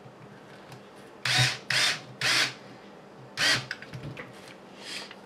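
Small electric screwdriver driving a screw into the RC kit's parts in four short bursts, three in quick succession and one a second later.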